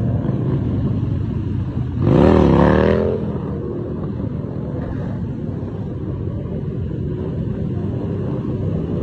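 Motorcycle engines running with a steady rumble, and one loud rev about two seconds in whose pitch rises, dips and rises again before it drops back after about a second.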